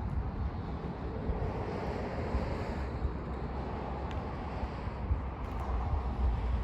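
2020 BMW X6 40i on the move: a steady low rumble of road and tyre noise with wind noise, with no clear engine note.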